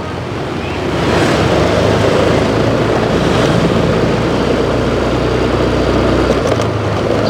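Motorbike running along the road with heavy wind rush and tyre noise over a low engine hum, growing louder about a second in and then holding steady.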